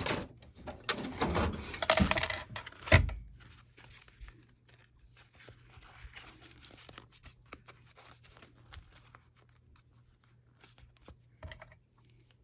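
Paper being shuffled and handled, with rustling and clicks, then one heavy thump about three seconds in; after that only faint scattered ticks.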